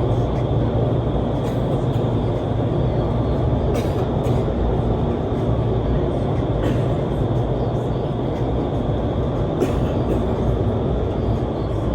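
Steady roar of airflow in an indoor skydiving vertical wind tunnel, heaviest at the low end. A few sharp knocks sound over it, around four, six and a half and nine and a half seconds in.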